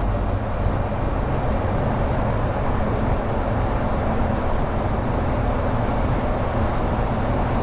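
BMW R1200GS Adventure's boxer-twin engine running steadily at cruising speed, under a constant rush of wind and road noise.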